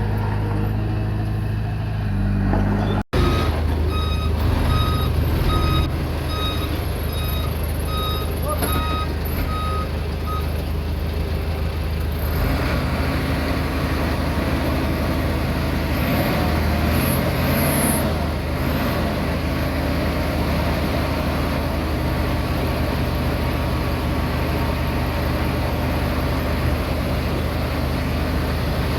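Komatsu D20P crawler bulldozer's diesel engine running steadily under work. A reversing alarm beeps repeatedly for several seconds, starting a few seconds in, about one to two beeps a second.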